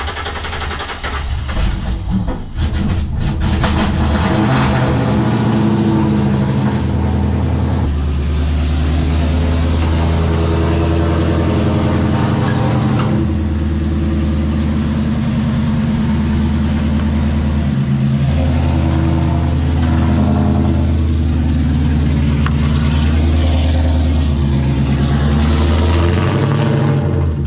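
Supercharged Ford Mustang drift car's engine running, building up over the first few seconds and then holding a steady idle, its pitch stepping up and down a few times.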